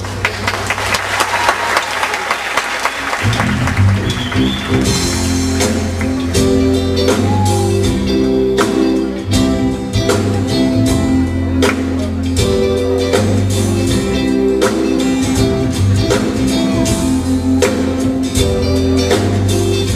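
Live rock band playing an instrumental passage on electric guitar, bass and drums. It opens over audience applause, and the full band comes in about three seconds in.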